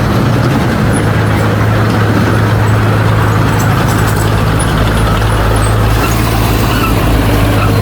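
Heavy earthmoving machine's diesel engine running steadily under load, a continuous low hum.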